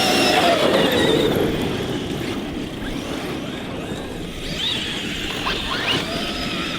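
Several large electric RC monster trucks accelerating away together, their brushless motors whining up and down in pitch over the rush of tyres churning the ground. They are loudest in the first second and ease off as they pull away, with more rising and falling whines a few seconds in.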